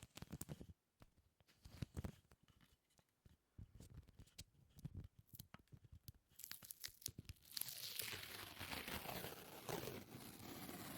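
Faint, close-miked ASMR sticky sounds: scattered short sticky clicks and pops, then from about seven and a half seconds a continuous crackling, tearing sound like something sticky being peeled.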